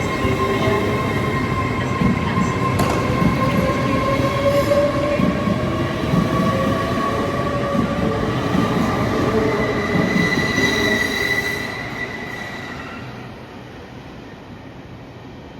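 A train moving along the tracks with its wheels squealing in several drawn-out tones over the rumble. The sound fades away after about twelve seconds as the train moves off.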